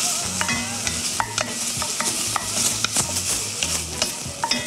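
Minced garlic, ginger and doubanjiang (chili bean paste) sizzling in hot oil in an enamelled pot. A wooden spatula stirs them, clicking and scraping against the pot. The aromatics are being fried until fragrant.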